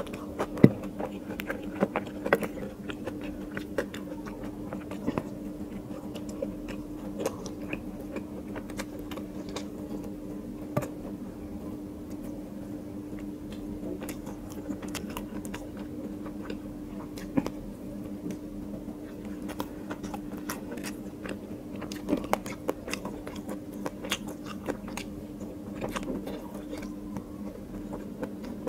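Close-miked chewing and biting as a person eats mouthfuls of biryani by hand, with wet lip smacks and scattered sharp mouth clicks. A steady low hum runs underneath.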